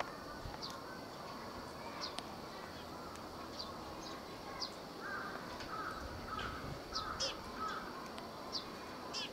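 Faint bird calls: scattered short, thin high chirps throughout, with a run of harsher caw-like calls about halfway through.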